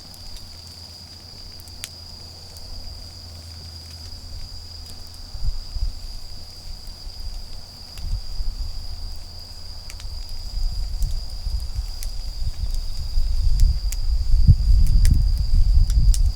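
Autumn insects trilling steadily on one high note, with scattered crackles from a wood campfire. A low rumbling, rustling noise builds from about halfway and is loudest near the end.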